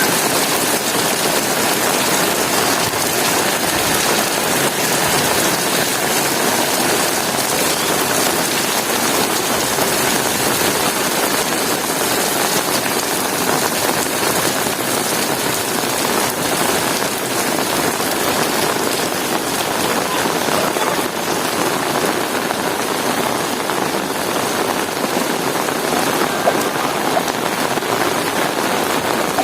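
Heavy rain falling steadily, an even hiss of drops without letup.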